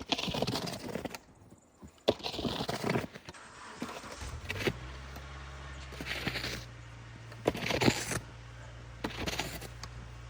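Snow being swept and scraped out from under shrubs with a long-handled broom fitted with a board: about six separate strokes, each a second or less. A low steady hum comes in about halfway through.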